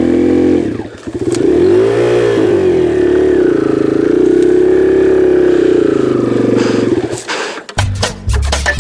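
Kawasaki KLX140G's single-cylinder four-stroke engine running and revving, dropping briefly about a second in, rising and falling in pitch, then holding steady before cutting off about seven seconds in. Banjo music starts near the end.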